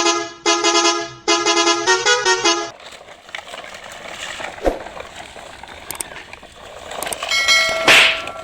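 A horn sounds a series of loud toots, the last few stepping up and down in pitch like a short tune. Quieter background noise follows, with a single thump, and another short horn blast near the end.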